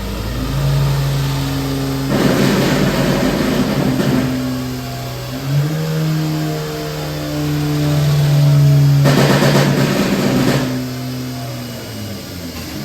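Hyundai LF Sonata 2.0T turbocharged inline-four running on a dyno, held at steady revs that step up once about halfway through and drop near the end. Two stretches of rapid exhaust crackle, each about two seconds long, come from its pop-and-bang map.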